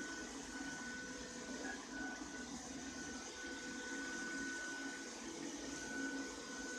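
Ropo Glass robot vacuum cleaner running: a steady whir with a thin, high, constant whine over it.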